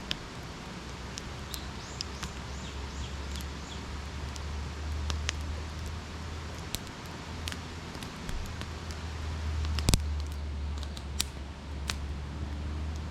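Wood campfire crackling, with irregular sharp pops and one loud pop about ten seconds in, over a low steady rumble.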